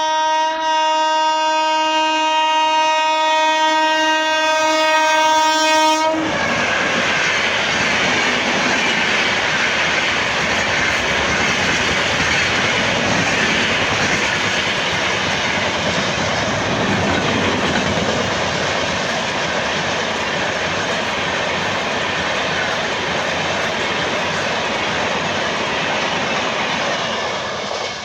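WAP-7 electric locomotive's horn sounding one long steady blast that cuts off about six seconds in. Then comes the loud rush and wheel clatter of the express train passing at speed, which drops away near the end.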